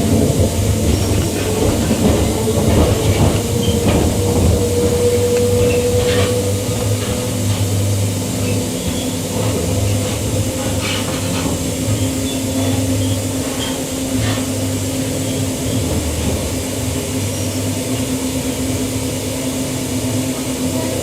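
Queensland Rail EMU electric train running on the track: a steady rumble with a held hum and a few sharp clicks.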